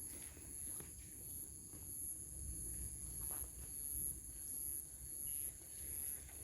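Forest insects, cicadas or crickets, keeping up a high, steadily pulsing drone, with a few soft footsteps on the trail under it.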